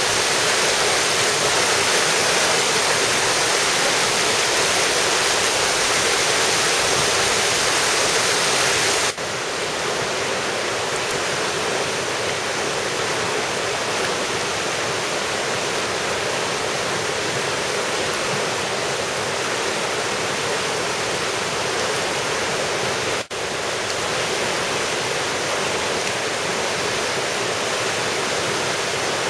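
Steady rushing of a valley stream's water. About nine seconds in it shifts abruptly to a slightly quieter level, and it briefly drops out once near the end.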